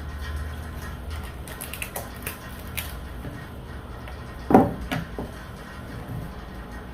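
Mukbang eating sounds: seafood boil being handled and chewed, with small clicks and crackles and a louder sharp smack about four and a half seconds in. A steady low hum from a room heater runs underneath.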